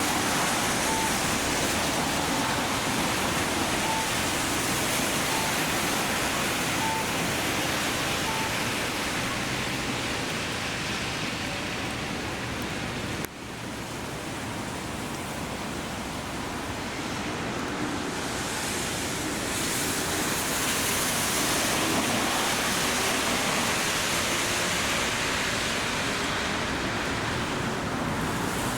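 Steady hiss of heavy rain falling, mixed with the wash of traffic on a wet road. Faint short beeps repeat about every second and a half for the first several seconds, and the hiss drops out for an instant about halfway through.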